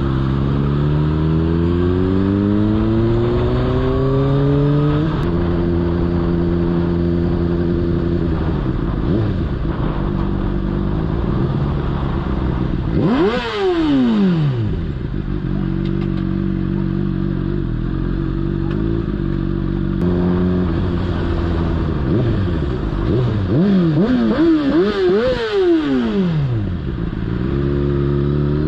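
Motorcycle engine running under way, heard from the bike itself. Its pitch climbs over the first few seconds as it accelerates, then holds steady. A sharp rev up and back down comes about halfway through, and a run of quick revs rising and falling comes near the end.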